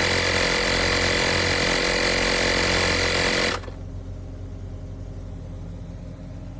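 Portable 12V tire inflator's compressor running with a steady buzz, then shutting off about halfway through, leaving a quieter steady low hum.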